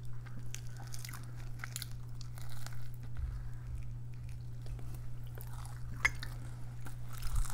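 Close-up mouth sounds of people biting and chewing fried pirozhki with potato filling: small irregular wet clicks and smacks, with a sharper click about six seconds in, over a steady low hum.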